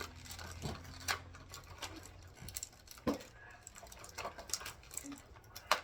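Small plastic toy pieces and packaging being handled, giving irregular light clicks and taps.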